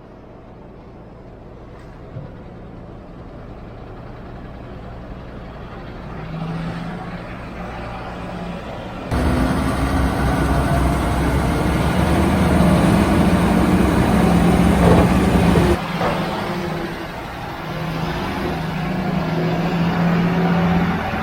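Heavy diesel truck engine running, growing steadily louder, with the sound jumping suddenly to a louder, fuller engine about nine seconds in and dropping back about sixteen seconds in.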